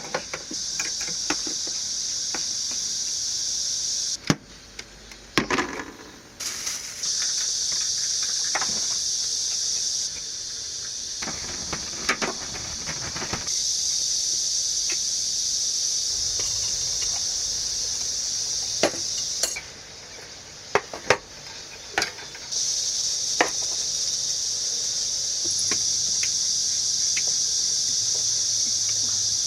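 Steady high-pitched buzzing of an insect chorus in summer, cutting in and out abruptly several times, with scattered sharp clicks and knocks.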